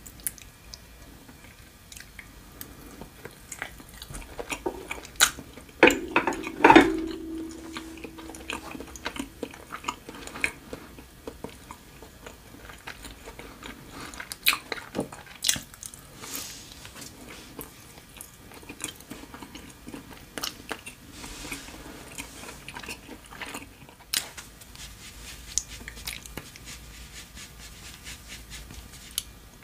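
Close-miked chewing and biting of food, with scattered mouth clicks and smacks. About seven seconds in, a ceramic dish is knocked and rings briefly.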